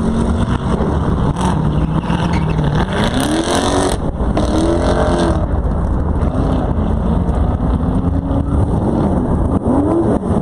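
Drag-racing car engines revving in several rising and falling swells over a steady low rumble.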